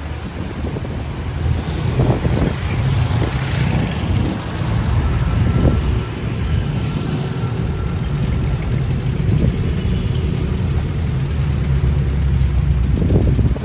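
City street traffic: car and truck engines running past close by, a steady low rumble with a faint high whine near the end.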